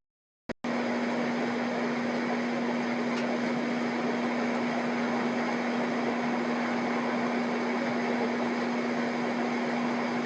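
Steady mechanical hum, a constant low tone over an even rushing noise, cut by a brief silence about half a second in.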